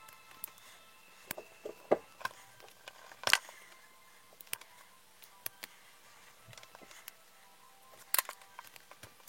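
Scattered light clicks and taps of small RC car suspension parts being handled, the loudest about two seconds in, again a second later, and near the end, with background music fading out at the start.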